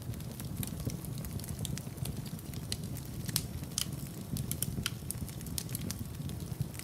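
Wood fire burning in a fireplace: a steady low rumble of flames under many irregular sharp crackles and pops from the burning logs, a few louder pops standing out.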